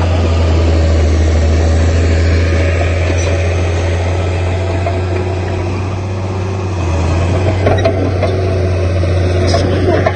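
Heavy diesel engine of earthmoving machinery running steadily, with a strong low steady drone. A couple of sharp knocks come in the last few seconds.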